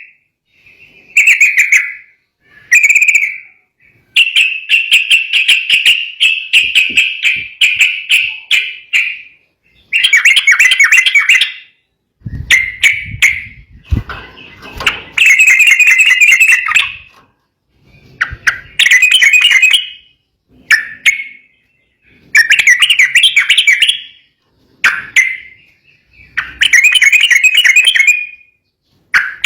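Sooty-headed bulbul singing loudly in repeated chattering phrases of one to three seconds, with short pauses between them.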